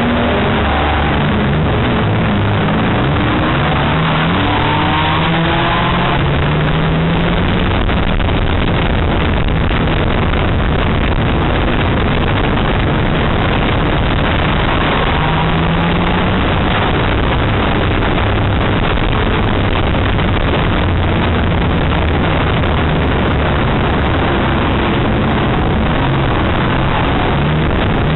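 Banger racing car's engine heard from inside the cabin, its pitch rising and dropping back several times as it accelerates and lifts around the track, under a constant loud rush of noise.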